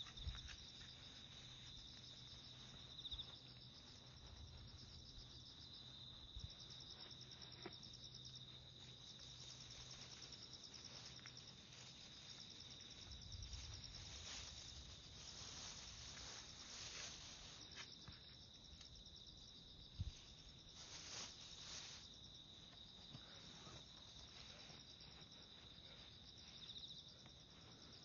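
Insects calling steadily, a constant high trill with a faster pulsing chirr above it, with faint walking sounds beneath.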